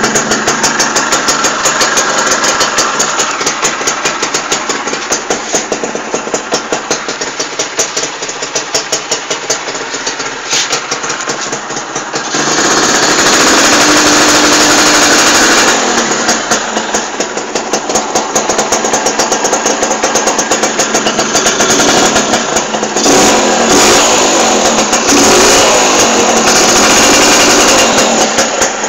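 Suzuki Satria R two-stroke motorcycle exhaust idling with a rapid, even popping pulse, then revved and held for about three seconds about twelve seconds in, and revved again in several blips near the end. The exhaust note is crisp and dry ("garing").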